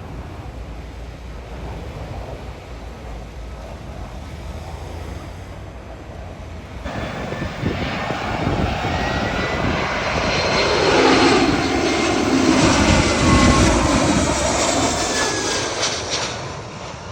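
Jet airliner passing low overhead on landing approach. Its engine noise swells from about seven seconds in, peaks, and fades, with a whine that falls in pitch as it goes by.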